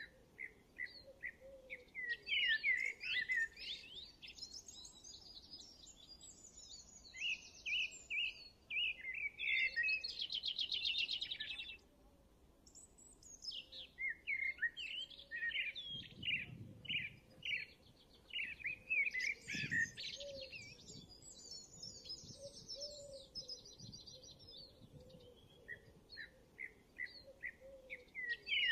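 Birds chirping and singing: quick runs of repeated chirps and warbling trills, with a dense buzzy trill about ten seconds in.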